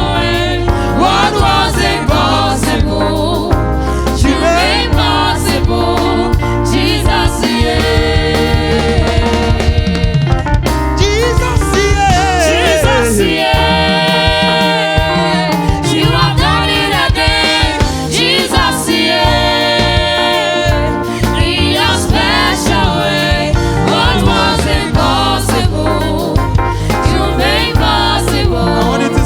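Gospel worship music with singing over a band with drums and bass; the bass and drums drop out for a stretch in the middle while the singing carries on, then return.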